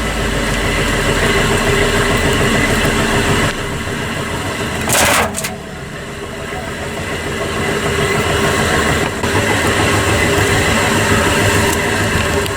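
Washing machine running, its drum turning with a dense, fast rattle from things tumbling inside. About five seconds in there is one brief loud hissing burst, then the level dips for a moment before the running noise builds back up.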